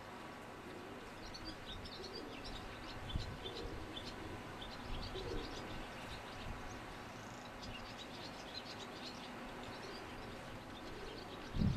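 Small birds chirping: many short, high chirps in loose clusters, with a low thud about three seconds in and a louder one near the end.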